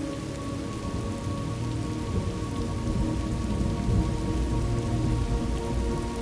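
Steady rain with a low rumble of thunder that swells from about two seconds in.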